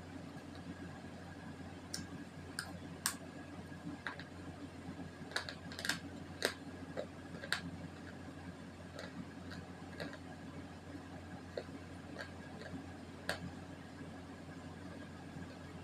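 Close-up crunching of slate pencils and multani mitti clay being chewed: irregular sharp crunches and clicks over a steady low hum.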